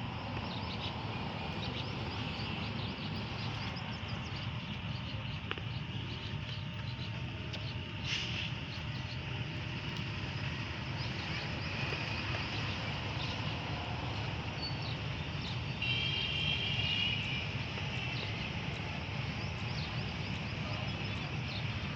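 Open-air rural ambience: a steady low rumble like distant road traffic, with scattered faint bird chirps and a brief high call about sixteen seconds in.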